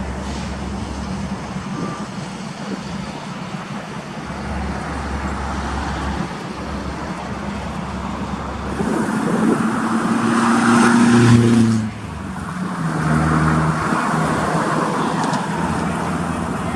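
Heavy diesel trucks running along a road, with steady engine and road noise. The sound grows louder from about nine seconds in, then cuts off abruptly near twelve seconds.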